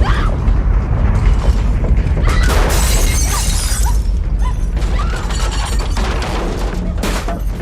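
Film soundtrack of a horror action scene: a deep continuous rumble with repeated crashes and shattering, under dramatic music.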